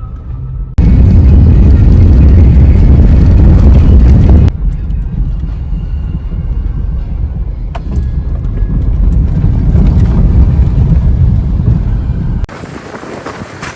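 Car driving: steady, deep road and engine noise, in clips that cut in and out abruptly, about a second in, at about four and a half seconds and near the end.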